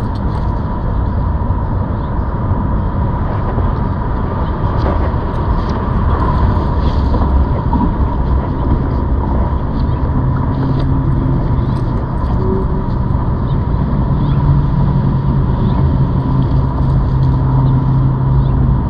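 Riding noise on a ZOOZ electric bike: wind rumbling on the microphone, with a steady thin whine that runs without a break.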